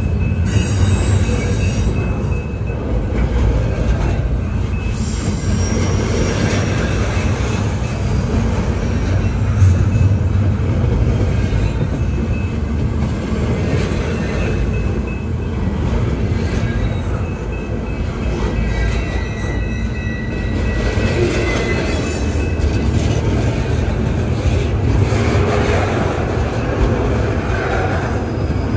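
CN intermodal freight train rolling past with a steady rumble of wheels on rail and faint, intermittent wheel squeal.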